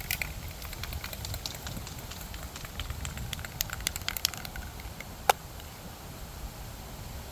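Wind buffeting the microphone as a steady low rumble, with scattered light clicks and ticks over the first few seconds and one sharp click a little past the middle.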